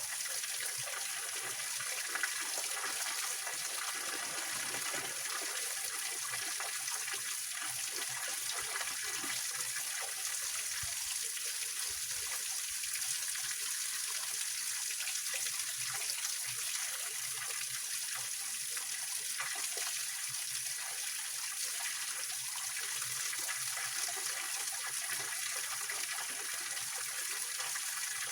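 Small mountain-stream waterfall splashing and trickling over rocks: a steady, even rush of water with a bright hiss.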